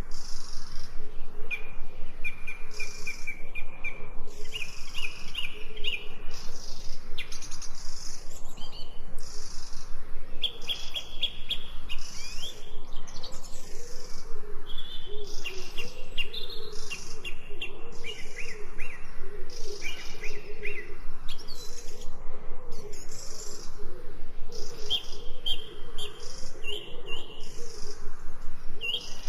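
Several birds chirping and singing at once in short, repeated high phrases, one call overlapping the next, with a fainter, lower warbling beneath.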